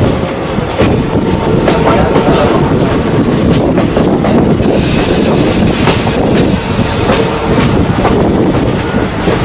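Passenger train coaches running on the track, heard from on board: a steady rumble with wheels clicking over rail joints, and a burst of high hiss from about five to seven seconds in.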